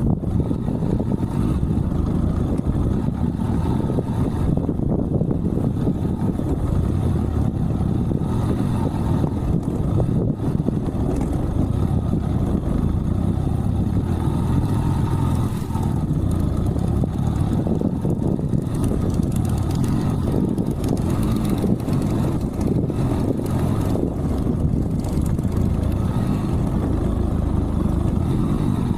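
Yamaha motorcycle engine running steadily while riding at an even pace, with a low rumble and no sharp revving.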